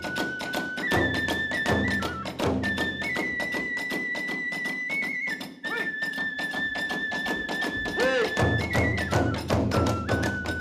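Kagura hayashi ensemble playing: a bamboo flute holds long notes, stepping between pitches, over a fast, steady clash of small hand cymbals and beats on the big drum. The drum is heavier near the end.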